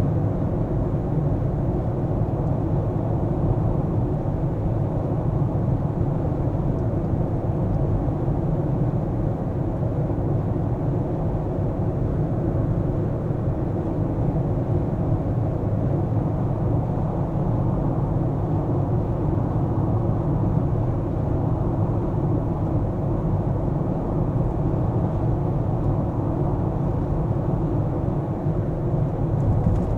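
Steady low rumble of a car being driven: engine and tyre-on-road noise, even throughout with no sudden sounds.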